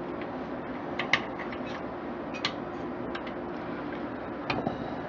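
A few light clicks and taps from heatsink mounting parts being handled and fitted, about one, two and a half and four and a half seconds in, over a steady low hum.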